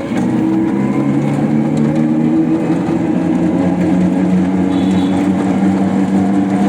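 A steady mechanical drone from a vehicle, with several held low tones. Most of the tones fade about two seconds in, and one carries on almost to the end.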